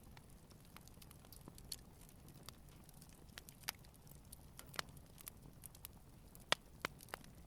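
Wood campfire burning gently: faint, irregular crackles and pops over a low steady rumble, with a few sharper pops in the second half.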